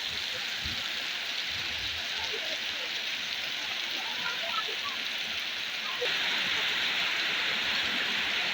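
Heavy rain pouring down, a steady dense hiss that grows louder about six seconds in.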